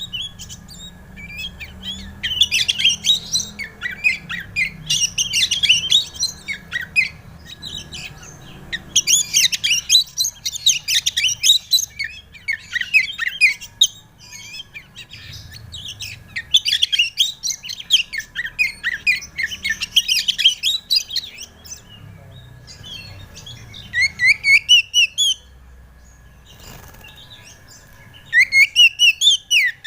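Oriental magpie-robin (kacer) singing loud phrases of rapid, varied whistled notes, each a few seconds long with short pauses between, over a faint steady high tone.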